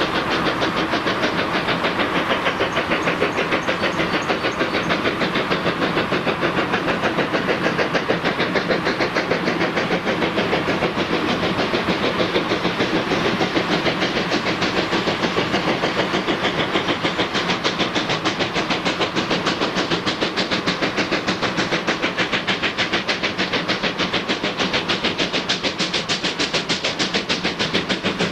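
Steam train running, with a fast, even beat that does not let up.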